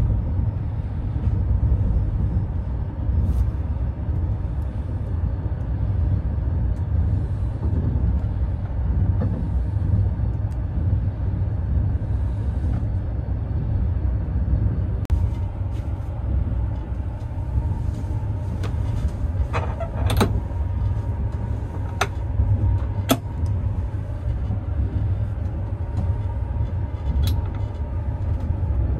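Steady low rumble of a moving CNR-built sleeper carriage heard from inside its compartment, with scattered sharp clicks and knocks from about halfway through.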